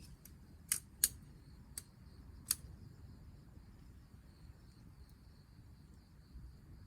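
Crickets chirping faintly and steadily in a high, pulsing trill. About four sharp clicks or snaps come over it in the first two and a half seconds.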